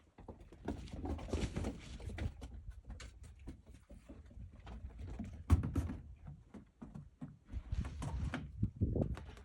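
Baby goat's hooves pattering and thudding as it jumps about on rubber inner tubes, with stretches of scuffing and one sharp, loud thump about five and a half seconds in.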